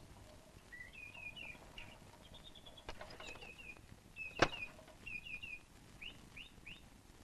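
Birds chirping in short, quick groups of two or three, repeated throughout. A single sharp knock sounds about four and a half seconds in.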